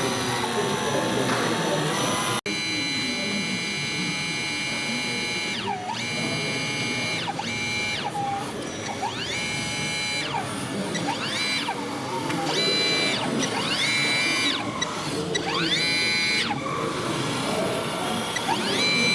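Whine of a small electric drive on an RC model, repeatedly rising to a steady high pitch, holding briefly and falling back, about eight times, over a background murmur of voices.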